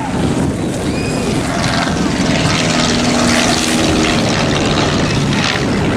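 Stampe SV-4 biplane's piston engine and propeller droning steadily in flight, with wind buffeting the microphone.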